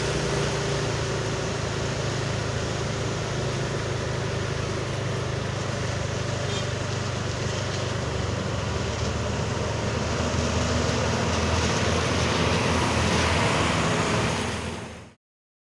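Bus engine running with traffic noise around it, growing a little louder towards the end before it fades out quickly.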